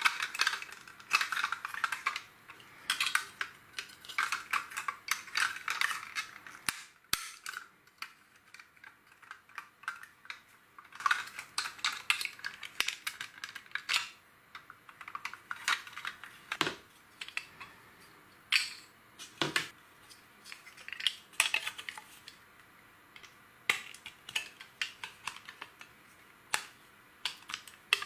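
Plastic LEGO bricks clicking and clattering as pieces are handled and snapped together, in quick irregular clusters of sharp clicks.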